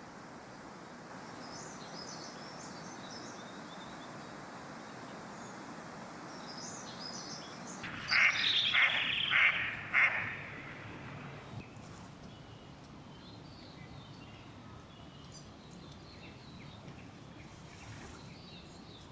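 Wild birds calling: faint high chirps at first, then a bird gives four loud calls in quick succession about eight seconds in, followed by a few faint chirps, over a steady outdoor background hiss.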